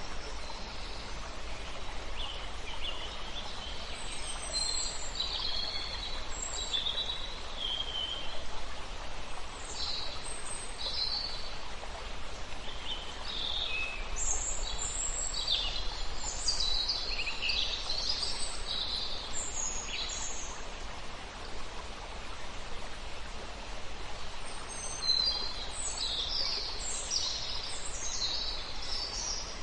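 Songbirds singing quick, high chirping phrases in several bursts, with a lull about two-thirds of the way through, over the steady rush of a river.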